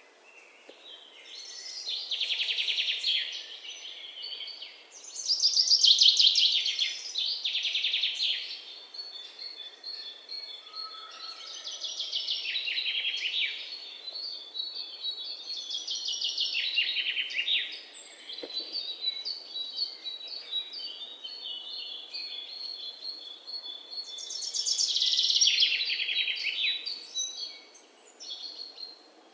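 Songbirds chirping in fast, trilled phrases of a second or two, repeated every few seconds, with a thin high note repeating steadily between them.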